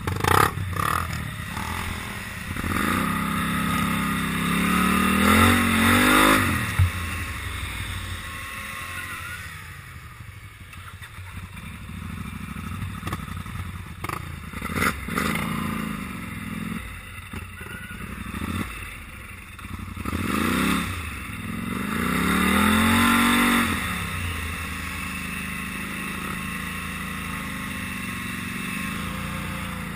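Polaris Sportsman 850 XP ATV engine revving up and falling back twice, then idling steadily.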